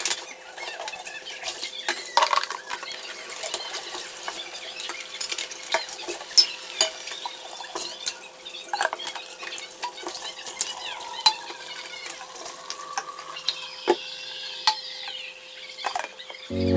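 Dishes and cutlery clinking and scraping as they are handled, in irregular small knocks, over a faint steady hum.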